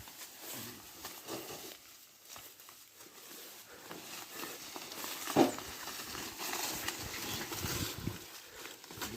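Footsteps and scuffing on a dirt track, irregular, with one sharp knock about five and a half seconds in.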